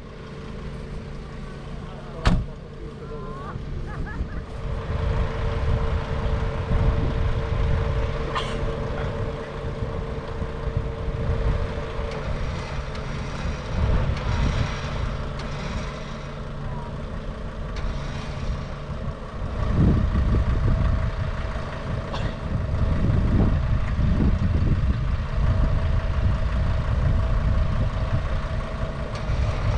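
Mercedes G-Class engine idling steadily, under a rough low rumble that swells at times, like wind on the microphone. A sharp knock comes about two seconds in.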